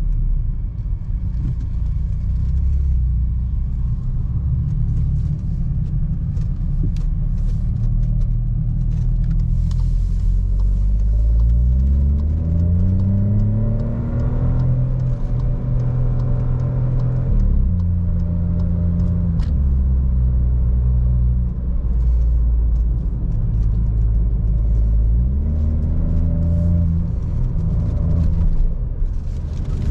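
Seat Ibiza FR's 1.0 TSI three-cylinder turbo petrol engine through a Friedrich sport exhaust while driving: a steady low drone at first, then the note rises under acceleration, holds, and drops sharply past the middle. A second, shorter rise comes later.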